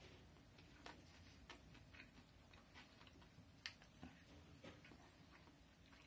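Near silence broken by faint, irregular soft clicks of closed-mouth chewing on a mouthful of burger, the clearest a little before four seconds in.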